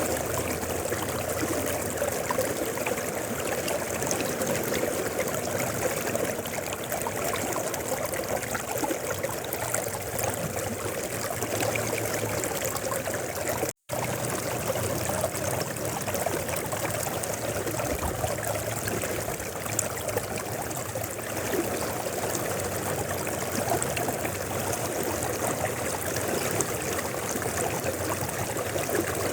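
Mountain river flowing steadily: a continuous rushing and trickling of water over stones. The sound cuts out completely for an instant about halfway through, then resumes unchanged.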